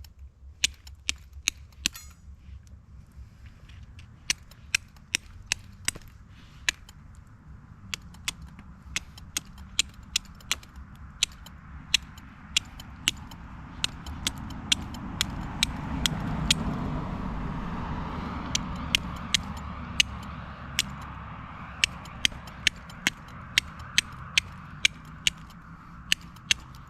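Flint and steel being struck over and over to throw sparks onto char, each strike a sharp scraping click, irregular at about one to two a second; no spark has caught yet. A broad rushing noise swells and fades around the middle.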